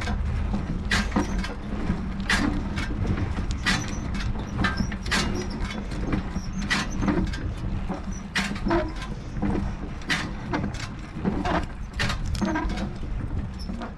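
A bike ride over rough ground: a steady low rumble and hum, broken by frequent irregular knocks and rattles.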